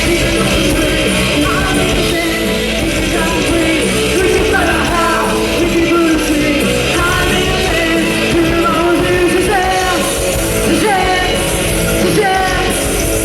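Rock band playing live, loud and continuous, with a woman singing over it.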